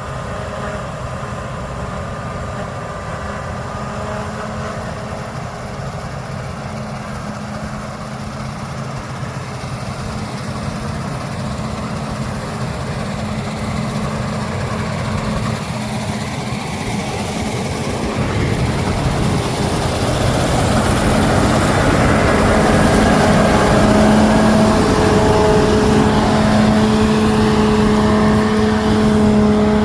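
Heavy diesel harvest machinery running steadily. About two-thirds of the way in, one machine comes closer and grows louder, its engine hum becoming more pronounced.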